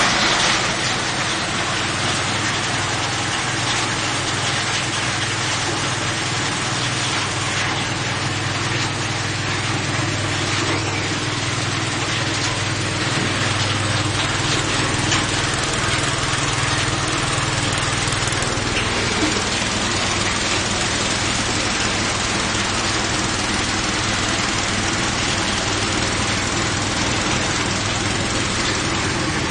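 Coconut-husk fibre-separating machine running steadily: a loud, even mechanical noise over a low hum, the hum easing a little about two-thirds of the way through.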